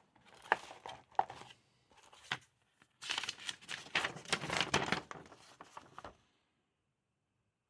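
Packaging crinkling and rustling while being handled, with a few sharp clicks, stopping about six seconds in.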